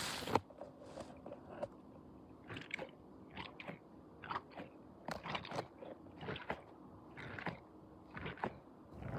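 Irregular short clicks and crackles, one to three a second and varying in loudness, with a sharp click near the start.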